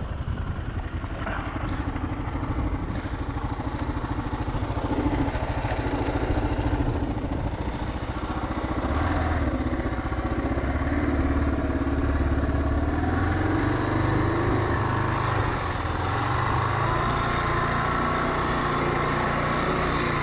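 Motorcycle engine running under way, its pitch slowly rising and falling as the throttle changes.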